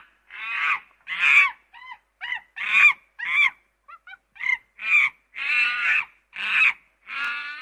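A monkey calling: a series of about a dozen shrill, pitched calls, some short and some drawn out, with brief pauses between them.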